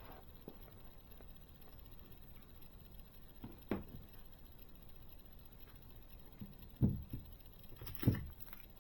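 Faint handling noises of small plastic model parts and the instruction magazine: a quiet background broken by three short, soft knocks.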